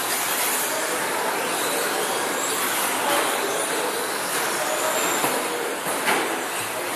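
A pack of 1/10-scale Pro 2 electric short-course RC trucks racing on a dirt track, their brushless motors whining up and down as they accelerate and brake, over steady tyre and track noise. A single knock about six seconds in.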